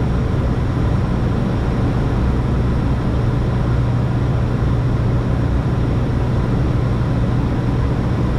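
Steady aircraft cockpit noise on final approach: engines and rushing air under a constant low hum.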